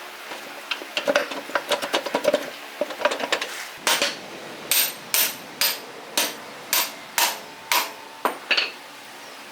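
Hammer striking metal: a run of quick, light taps and clicks, then steady, sharp blows about two a second, each with a short metallic ring.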